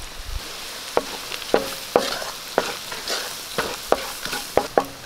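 Crushed shallots and chilli powder sizzling in hot coconut oil in a wok-style pan, stirred with a wooden spatula that knocks against the pan about ten times.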